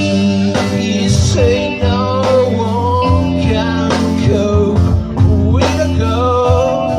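Live blues-rock band playing: a lead line of bending, sliding notes over steady bass and regular drum hits.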